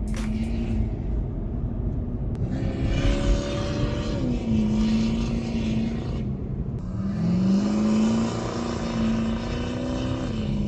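Vehicle engine running while driving, its pitch climbing twice and dropping back each time, over steady road and engine noise.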